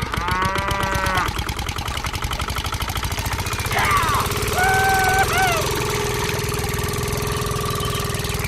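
Small engine running with a steady, rapid knocking pulse, as of a mini tractor's engine. Two short high-pitched, voice-like sounds rise over it near the start and about four seconds in, and a steady held tone joins it later.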